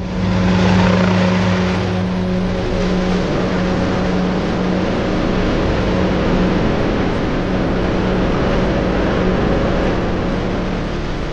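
A 500-kg-class unmanned helicopter's engine and rotor running at flight power as it is launched: a strong steady hum with a broad rotor-wash hiss. It swells in the first second and eases slightly near the end.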